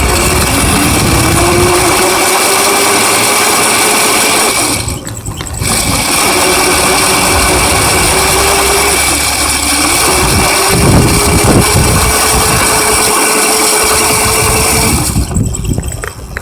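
Small dirt bike's motor running under way, its pitch climbing as it pulls off. It eases off briefly twice and dies away near the end.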